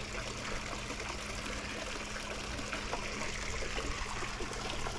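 Swimming pool water running steadily, a continuous trickling stream, with a faint steady hum underneath as the pool's circulation is brought back into service.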